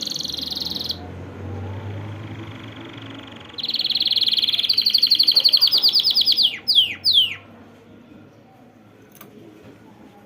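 A caged finch singing: a fast, even trill for about the first second, then after a pause a longer, louder rapid trill that quickens, ending in two sharp downward-sliding whistles.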